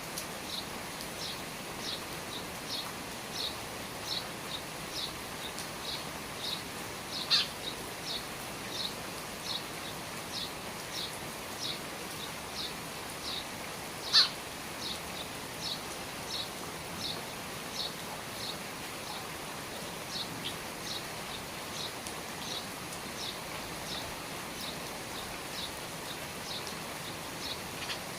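Steady patter of rain under the eaves, with a bird repeating a short, high, slightly falling chirp about once every 0.7 seconds. Twice the note comes out noticeably louder.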